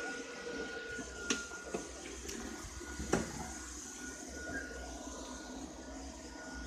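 Ropo Glass robot vacuum running, a steady whir with a thin high whine, broken by a few sharp clicks or knocks in the first half.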